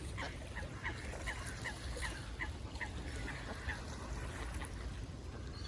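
Waterfowl calling: a quick run of short, repeated calls, about three a second, for the first few seconds, then only a few scattered calls, over a steady low rumble.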